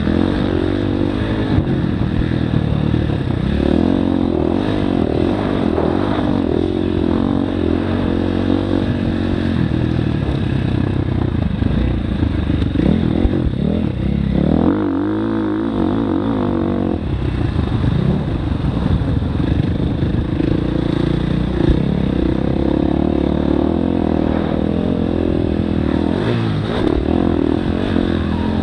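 Motocross dirt bike engine revving up and down continuously as it is ridden, pitch rising and falling with throttle and gear changes, with one long rise about halfway through.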